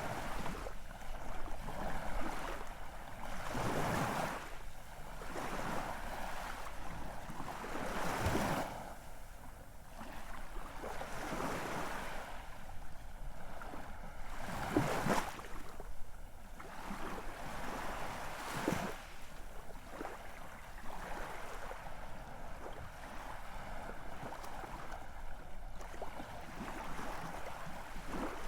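Ocean waves washing onto a shore: a steady rushing with louder surges every few seconds as waves break.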